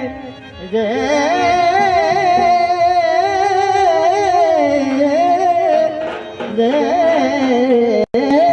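Rajasthani folk song: a singer holds long, wavering, ornamented notes over instrumental accompaniment. The sound cuts out for an instant near the end.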